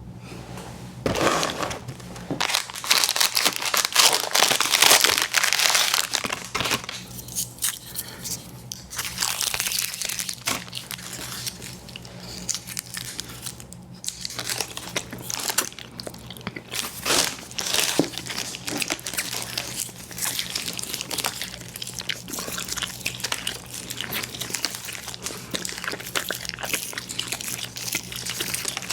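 Close-miked eating of chewy fruit candies: bites and wet, sticky chewing with crinkling, loudest in the first several seconds and then going on more steadily.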